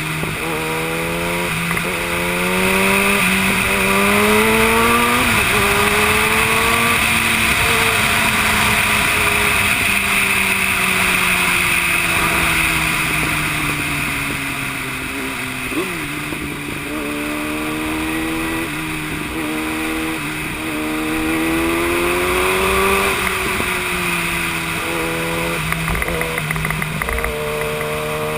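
Yamaha YZF-R1 sportbike's inline-four engine under way, its pitch climbing in short steps broken by drops as it shifts up through the gears, then falling slowly as the bike slows, with a quick blip, before pulling up through the gears again. Steady wind rush runs underneath.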